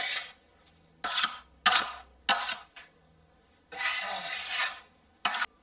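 A putty knife (spatula) scraping over wet joint compound on a mesh-patched plasterboard wall: a run of short, light smoothing strokes with one longer stroke near the end, as the first coat is skimmed flat.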